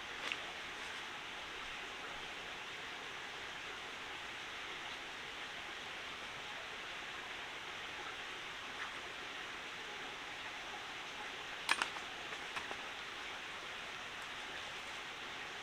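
Steady rushing of a forest stream, with a few short sharp knocks, the loudest a quick pair about twelve seconds in.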